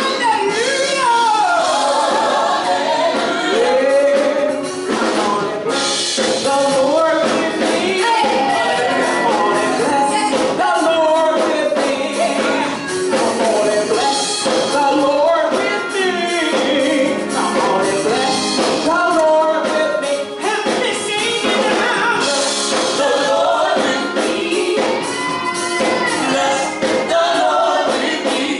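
Gospel worship singing by a group of voices, several singers overlapping in a praise song.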